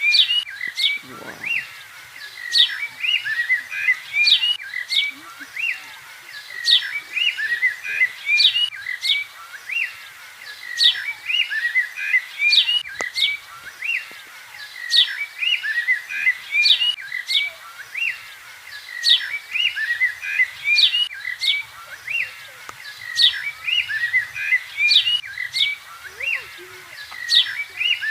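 Birds chirping, a run of quick high chirps with sharp upward sweeps that repeats in a near-identical pattern about every two seconds.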